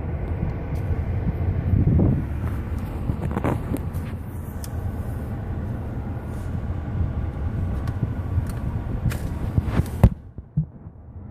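A motor vehicle driving through floodwater: a steady rumble that cuts off suddenly about ten seconds in.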